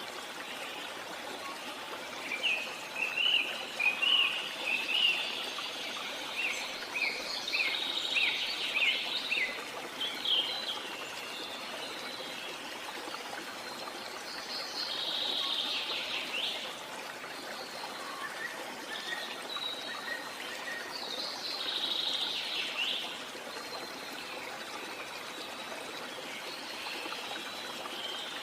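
Steady rushing water of a waterfall or stream, with birds calling over it: a run of quick chirps early in the stretch, then two longer swooping calls, one about halfway and one after about twenty seconds.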